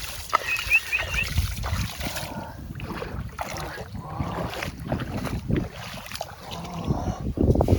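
Muddy water sloshing and splashing in irregular small knocks as hands dig through a mud hole for fish, with wind rumbling on the microphone.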